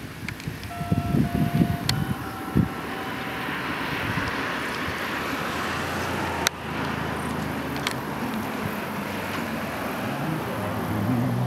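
An approaching CN diesel freight locomotive on an ore train. A short run of steady horn notes sounds early on, then the engine's low running grows steadily louder over a rising hiss. Wind thumps on the microphone in the first seconds.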